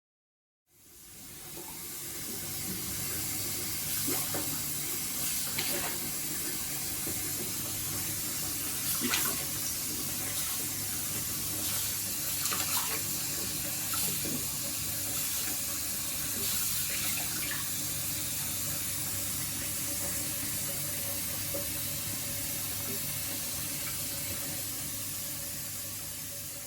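Tap water running steadily into a bathroom washbasin, with a few small splashes. It fades in just after the start and tails off near the end.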